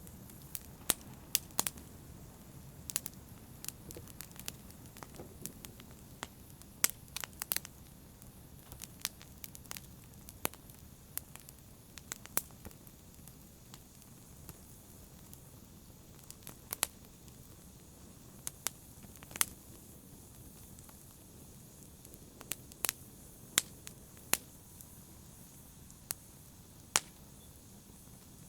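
Wood fire burning in a fireplace: a steady low rumble and hiss with irregular crackles and sharp pops, a few of them much louder than the rest.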